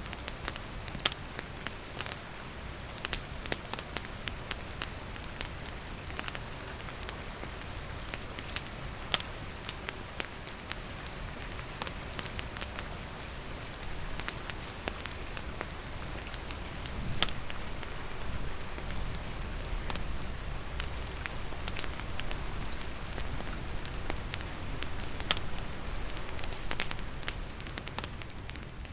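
Steady rain falling, with a wood campfire crackling and popping in sharp clicks over the rain's hiss.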